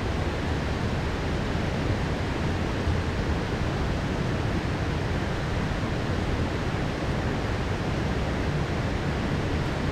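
Heavy rain downpour falling steadily, an even hiss with no thunderclap standing out.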